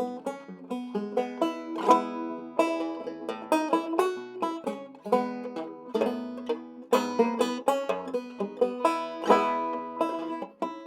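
A circa 1923 Weymann Keystone State guitar banjo, a six-string banjo, played solo in a classic ragtime style: a quick, continuous run of bright plucked notes and chords.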